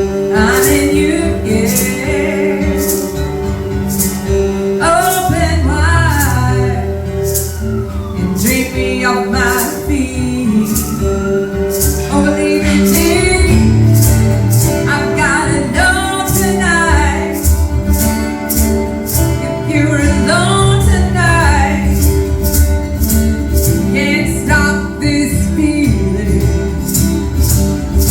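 A duo playing a song live: singing over instrumental backing, with a steady beat of percussive hits about twice a second.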